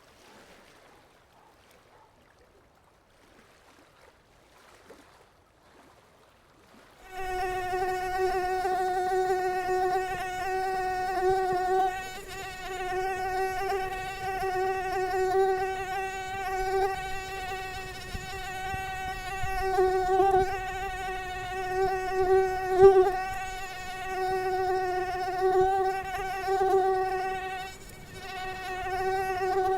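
A faint hiss at first, then about seven seconds in a mosquito's high-pitched whine starts suddenly and holds steady, swelling and fading a little.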